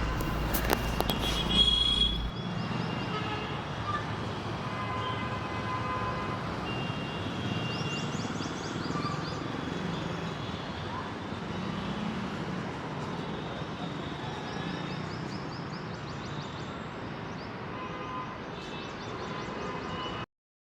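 Steady outdoor urban ambience: a hum of distant road traffic with occasional short vehicle horn toots and a few high chirps, cutting off suddenly near the end.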